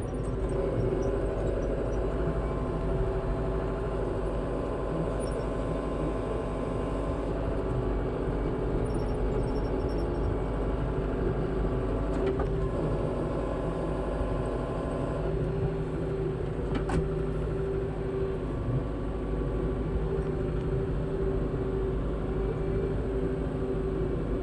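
Farm tractor engine running steadily under way, with a single brief click about seventeen seconds in.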